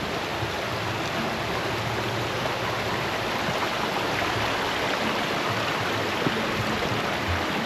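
Steady rush of flowing stream water from the spring-fed headwaters of the Sacramento River.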